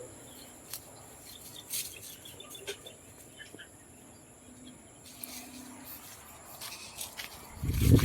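Quiet farmland ambience: faint steady high-pitched insect chirring with a few scattered light clicks. Near the end a loud, low, irregular rumble sets in.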